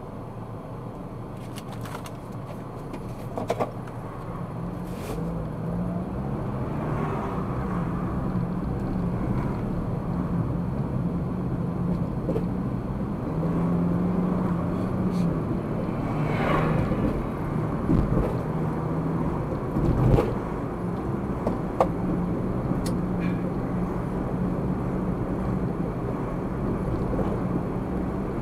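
Car driving, heard from a dashcam: steady road and engine noise with a low hum, growing louder over the first several seconds as the car picks up speed. A few short knocks are scattered through it.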